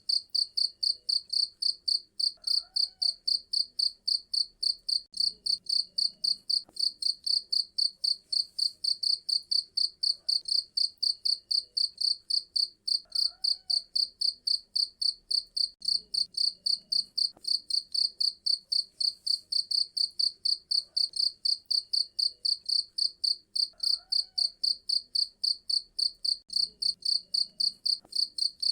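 A cricket chirping in an even, unbroken rhythm of about four high-pitched pulses a second.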